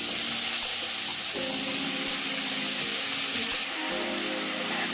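Steady sizzle of onion and tomato frying in oil in a pan as sliced green capsicum is tipped in, with background music over it.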